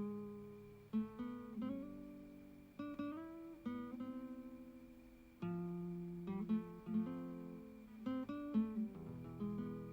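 Acoustic guitar music: plucked notes and strummed chords, each ringing out and fading.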